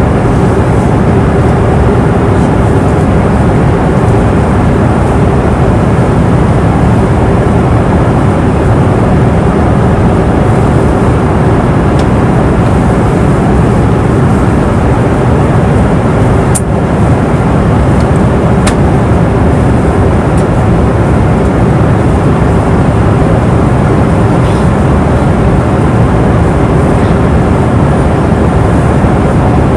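Airliner cabin noise in flight: a dense, steady rumble of engines and airflow, with a constant hum underneath. A couple of faint clicks come near the middle.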